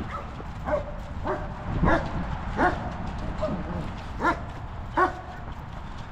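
A dog barking repeatedly, about eight short barks at roughly even intervals, over a steady low rumble.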